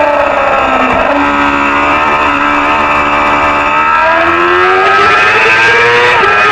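Racing motorcycle engine under load: its pitch falls as it slows over the first second, holds, then climbs steadily as it accelerates through the revs, with a short dip near the end like a gear change.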